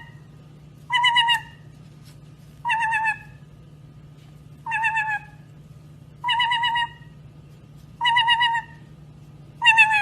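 A parrot giving a short, quavering, pitched call six times, about every second and a half to two seconds. A steady low hum runs underneath.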